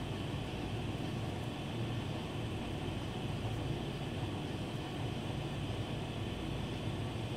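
Steady low outdoor rumble at an even level, with no distinct thunderclap standing out.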